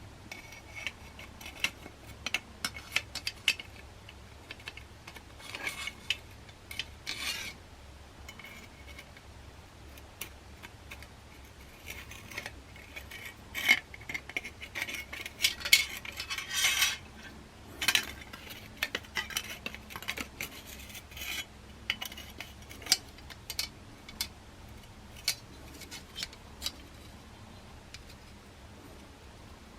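Small metal stove parts and tools clinking, tapping and scraping as they are handled, with irregular clicks throughout and a busier stretch of clatter and scraping around the middle.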